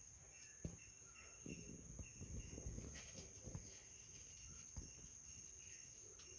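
Quiet outdoor ambience: a faint, steady, high-pitched insect drone, like a cricket, with a few soft low knocks scattered through.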